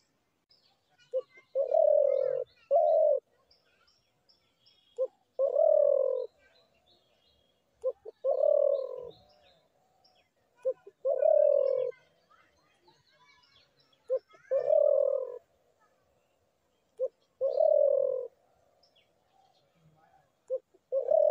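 Spotted dove cooing: a short note followed by a longer coo, repeated about every three seconds, about seven times. Faint chirps of small birds sound between the calls.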